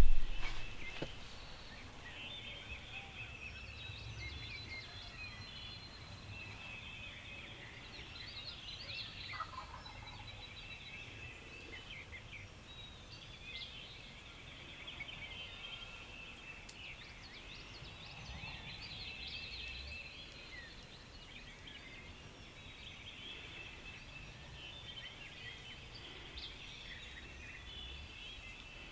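Wild turkey gobbler gobbling over a steady chorus of songbirds chirping, with a deep, faint drumming from a strutting gobbler coming and going underneath. A loud sound opens it.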